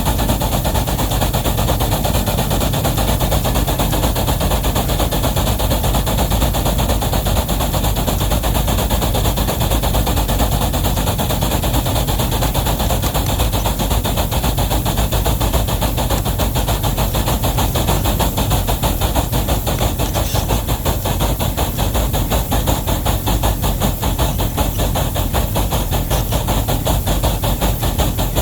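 Steam locomotive working hard under a heavy train, its exhaust beats coming so fast that they run together into a steady, rapid chatter.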